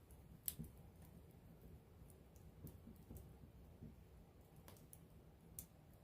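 Wood campfire crackling up close: scattered sharp pops over a low, steady rustle of flames, the loudest pop about half a second in.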